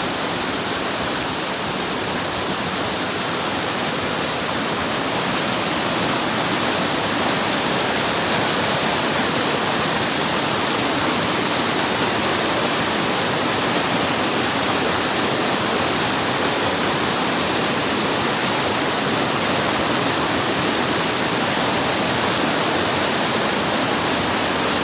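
Steady rush of flowing river water, an even hiss and roar without a break, growing slightly louder about six seconds in.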